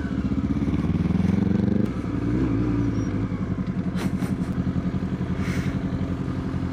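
Sport motorcycle engine heard from the rider's position, revving up for about two seconds. It then drops abruptly to lower revs and runs on with an even pulsing beat, with a couple of brief clicks about four seconds in.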